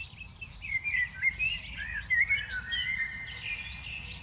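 A flock of small songbirds chirping and calling over one another in a dense chorus of short chirps that rise and fall in pitch.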